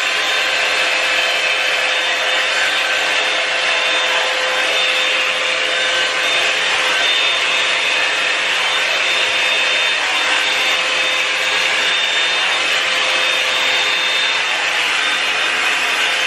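Revlon hair dryer running steadily, a continuous rush of air with a high whine from its motor.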